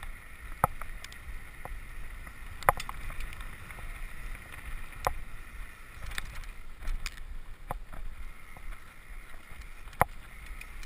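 Mountain bike clicking and knocking, about six separate sharp clicks spread through, over a low rumble of wind on the microphone.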